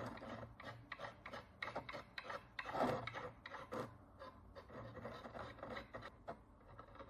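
Short, repeated scratching strokes of a hand tool scraping the crust of dirt and oxidation off an ancient Roman bronze coin, several strokes a second, thinning out and getting fainter after about four seconds.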